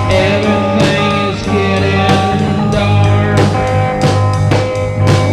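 Rock band playing an instrumental passage without vocals: held guitar chords over a drum kit keeping a steady beat.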